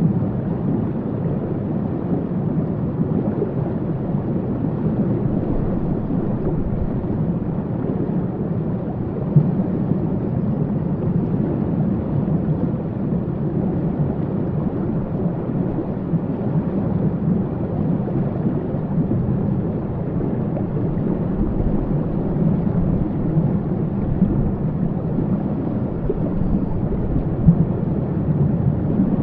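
Waterfall: a steady, deep rush of falling water that keeps an even level throughout.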